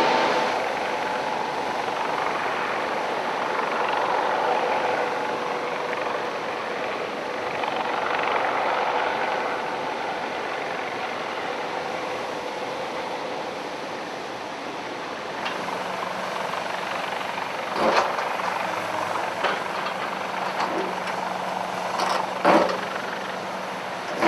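Steady engine and machinery noise, with a low hum and several sharp knocks in the last third.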